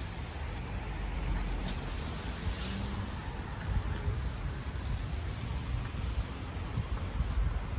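Steady outdoor rumble and hiss, heaviest in the low end, with a few faint high chirps in the middle.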